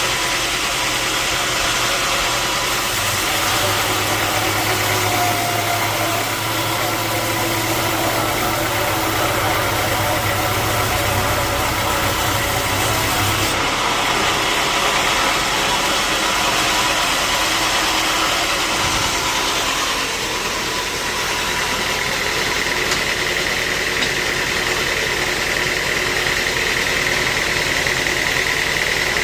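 Sawmill machinery running steadily with a constant mechanical drone; a high whine comes in about two-thirds of the way through.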